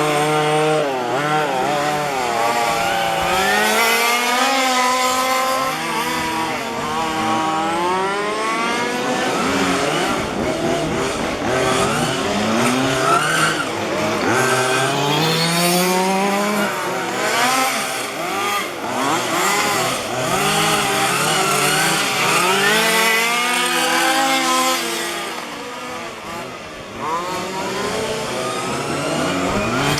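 Several 1:5-scale petrol RC cars' small two-stroke engines revving up and down as they race around the track, their overlapping pitches rising and falling. The sound eases off briefly near the end.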